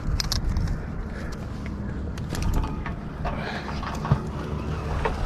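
Scattered mechanical clicks and rattles, with one sharp knock about four seconds in, over a steady low rumble.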